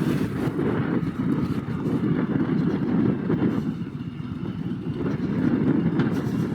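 Harley-Davidson Road Glide's V-twin engine running steadily under way, a low rumble mixed with wind and road noise.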